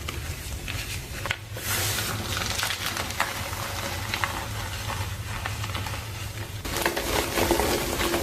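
A reformed block of gym chalk being crushed, crunching and crumbling with a dense run of small crackles and snaps.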